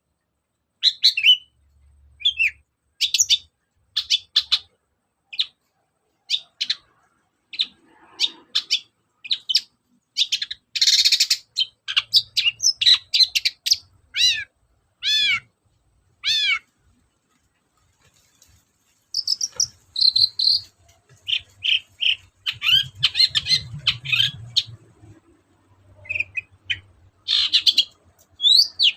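Long-tailed shrike (cendet) singing: a quick, varied run of short high chirps and calls, with a few falling whistled sweeps near the middle followed by a short pause.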